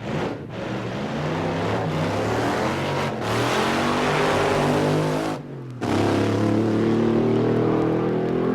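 Drag racing car engine at full throttle, accelerating down the strip with its pitch rising; it drops out briefly about five and a half seconds in, then pulls again and keeps climbing.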